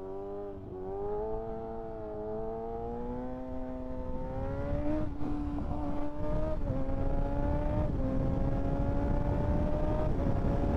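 Kawasaki ZX-6R 636's inline-four engine pulling under acceleration: it climbs slowly in pitch, then drops at upshifts about five, six and a half, eight and ten seconds in. A wind rush grows louder as the speed builds.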